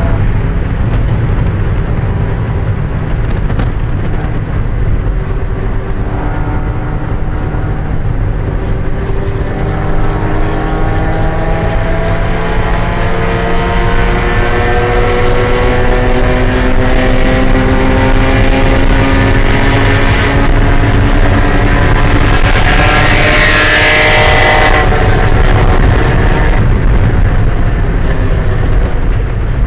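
1995 Mazda Miata's 1.8-litre four-cylinder engine running hard under race load, its pitch climbing slowly over a long stretch in one gear. A loud rushing hiss joins in from about twenty seconds in, lasts some six seconds, then fades.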